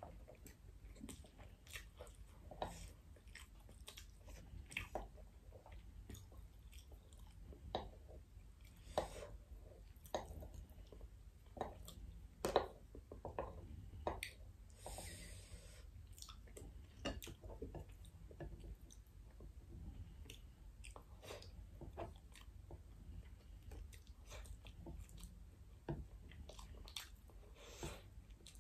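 A person chewing a mouthful of rice and salmon close to a clip-on microphone, with irregular soft smacks and clicks of the mouth. There is a brief hiss about halfway through.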